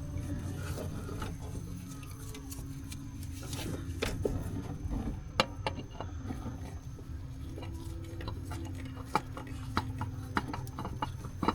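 Light handling noise of a new oil filter being worked by hand onto its side-mounted housing under a Jeep Wrangler: scattered small clicks and taps, a few sharper ones, over a steady low hum.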